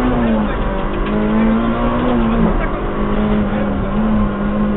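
Rally car engine heard from inside the cockpit, running hard at speed; the revs climb and drop sharply twice, then hold roughly steady.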